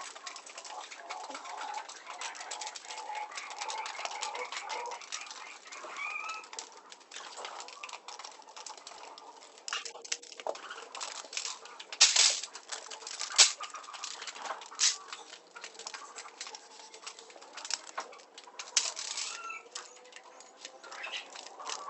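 Pigeons pecking at scattered feed: a dense run of quick clicks, with a few louder knocks about halfway through, and short cooing calls now and then.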